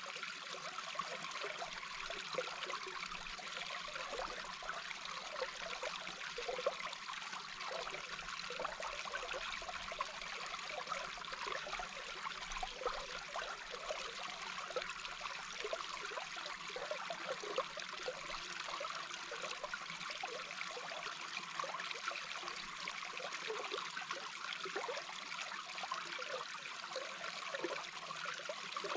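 Small brook heard from underwater: a steady rush of flowing water with a constant run of small, quick gurgles and bubble pops.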